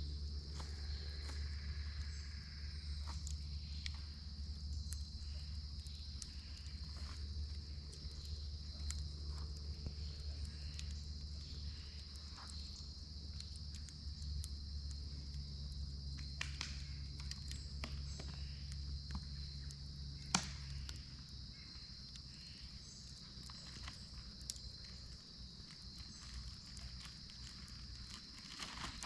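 Campground ambience: insects droning steadily at a high pitch, with scattered light clicks and crackles and one sharper click about 20 seconds in. A low hum underneath stops about 21 seconds in.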